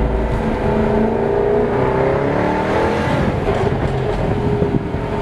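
A car's engine accelerating under throttle, its pitch climbing about two seconds in and then easing off, over steady road and tyre noise.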